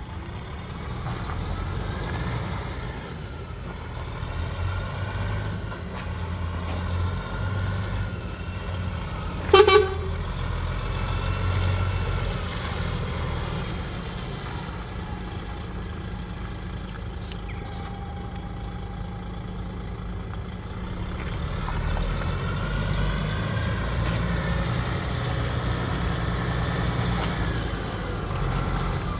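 DAF XF 105 460 truck's PACCAR MX straight-six diesel running, its note rising and falling as it is revved. One short, loud blast of the truck's horn about ten seconds in.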